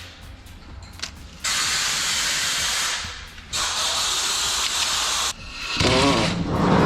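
Two long hissing sprays from a pressurised nozzle, each about a second and a half, with a short pause between them.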